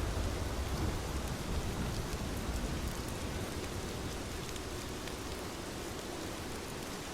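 Steady rain falling, a continuous hiss with faint scattered drop ticks. A low rumble under the rain dies away over the first few seconds.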